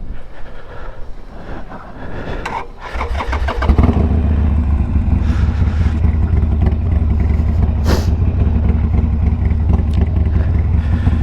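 Harley-Davidson Sportster Iron 1200 V-twin, stage-one tuned with a Two Brothers 2-into-1 exhaust. It runs lightly for the first few seconds, then picks up about three seconds in and runs steadily and loudly under way.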